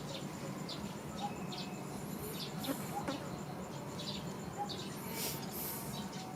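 Outdoor ambience: scattered short, high chirps over a steady, evenly pulsing insect trill and a low background hum.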